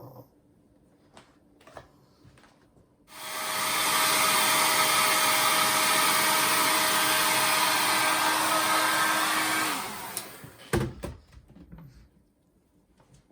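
A hair dryer switches on about three seconds in and runs steadily with a motor whine for about seven seconds. It is then switched off, and the whine drops as it winds down.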